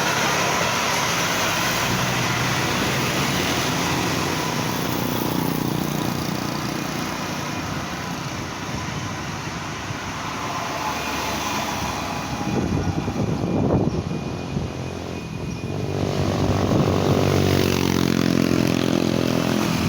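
Heavy vehicle engines labouring up a steep hill as traffic passes. There is a louder rough pass midway, and near the end one engine drones strongly with its pitch creeping up under load.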